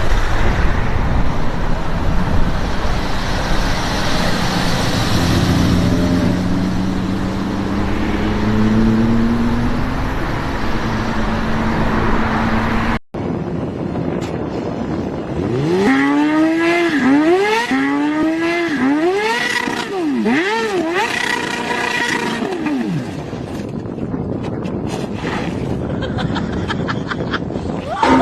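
Sports car engines at high revs. First a loud run with the pitch climbing slowly under a heavy roar. Then, after a sudden cut, another engine rises and drops in pitch six or seven times in quick succession, like hard acceleration through the gears or repeated rev blips.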